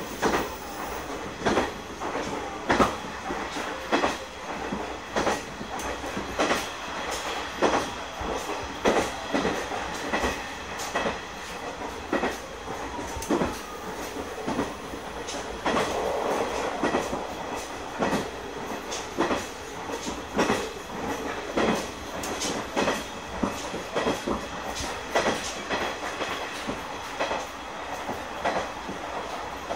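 KiHa 100 diesel railcar running along the track, heard from inside the cab: steady running noise with a regular clickety-clack of the wheels passing over rail joints, the clicks often coming in pairs.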